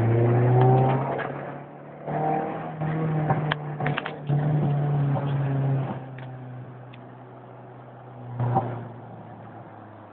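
Acura Integra GS-R's VTEC four-cylinder engine pulling hard under acceleration, rising in pitch. There is one pull at the start and a second from about 2 to 6 seconds, after which it settles to quieter running, with a brief sharp rev near 8.5 seconds.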